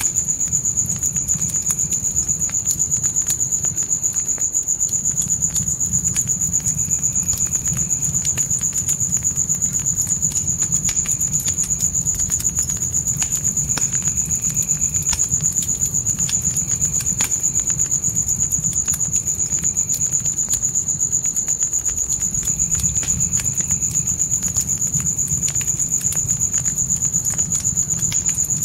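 Crickets trilling steadily on one high, unbroken note, over the low rumble and scattered pops and crackles of a wood fire.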